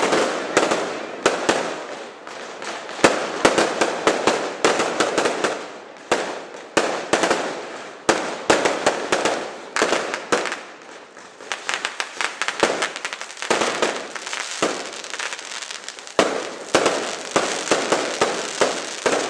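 Fireworks display: shells bursting in quick, crackling salvos of many sharp bangs, coming in clusters with short lulls between them.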